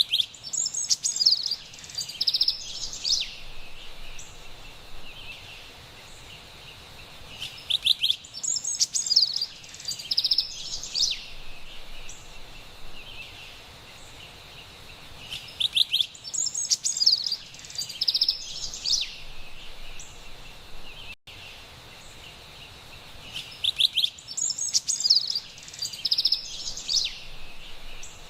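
Carolina wren singing: four bouts about 8 seconds apart, each a couple of seconds of quick, bright, high notes, over a steady faint background hiss.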